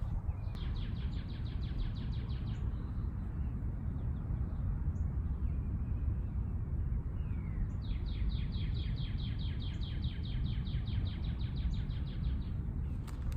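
A songbird singing a rapid, even trill of many repeated high notes, twice: a short trill of about two seconds near the start and a longer one of about five seconds in the second half. A steady low rumble of outdoor background noise runs underneath.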